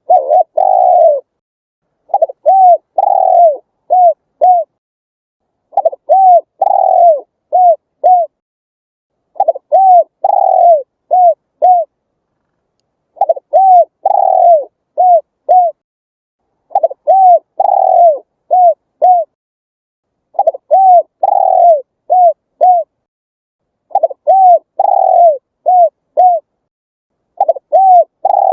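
Spotted dove cooing its territorial song over and over, a new phrase about every three and a half seconds. Each phrase has a couple of short coos, one longer drawn-out coo, and then two or three quick short coos, with silence between phrases.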